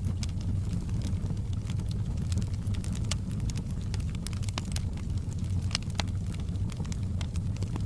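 Wood fire burning in a fireplace: a steady low rumble of flame with irregular sharp crackles and pops scattered throughout, a few of them louder than the rest.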